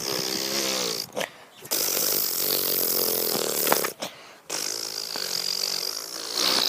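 Three long fart noises, each about one to two seconds long, with a rasping buzz.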